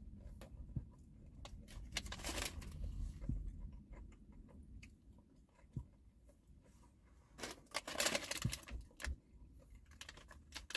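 Chewing a piece of crispy breaded popcorn chicken: faint crunches and small clicks, with a louder crackle of paper packaging being handled about three quarters of the way through.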